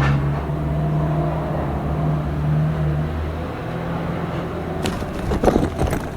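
A motor vehicle's engine running with a steady low hum that fades away about three and a half seconds in, followed by a few sharp knocks near the end.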